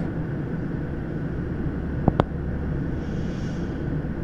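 Slow intermodal freight train rolling through a road crossing: a steady low rumble heard from inside a waiting car, with one sharp click about two seconds in.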